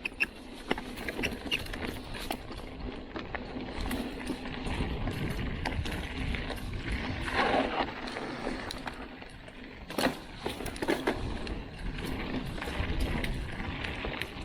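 Mountain bike rolling down a dirt flow trail: steady tyre noise and low rumble, with frequent clicks and rattles from the bike.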